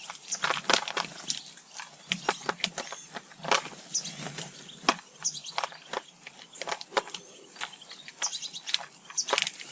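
Small garden birds at feeders giving short, high chirps among frequent sharp clicks and taps.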